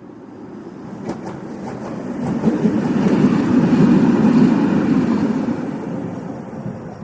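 Train passing on the track: a rumble that builds to its loudest about three to four seconds in, then fades as it goes by.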